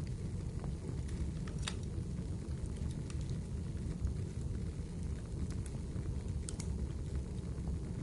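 Wood fire burning in a fireplace: a steady low rumble of flames with a few sharp crackles and pops from the burning wood, one about two seconds in and two close together later on.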